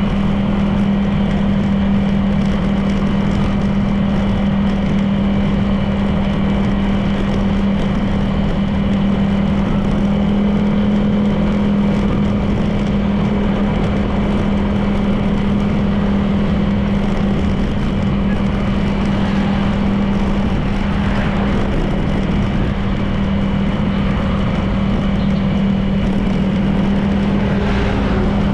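Honda PCX 160 scooter's single-cylinder engine running at a steady cruising speed, a constant drone under road and wind noise.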